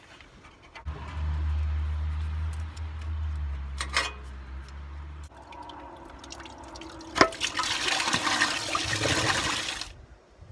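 Coolant draining out of a 1978 Toyota Land Cruiser's cooling system and splashing into a container. A steady low hum runs through the first few seconds; after a click about seven seconds in comes a loud rushing splash that stops sharply near the end.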